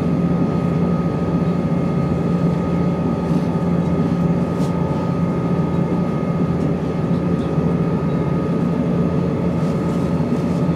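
Inside a Class 170 Turbostar diesel multiple unit under way: steady rumble of the underfloor diesel engine and running gear, with a steady high-pitched whine riding over it. The uploader is unsure what causes the whine.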